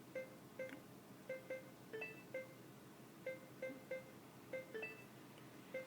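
Touch-screen navigation unit of a Nissan March giving short electronic beeps, about two a second in an uneven pattern, some slightly lower in pitch than others. These are key-press beeps from the screen registering touches that nobody is making, a fault the owner suspects is an electrical short.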